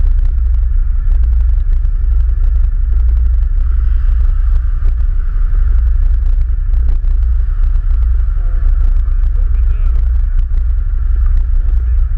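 ATV running while being ridden, with a heavy, steady low rumble of wind on the microphone and scattered knocks from the ride.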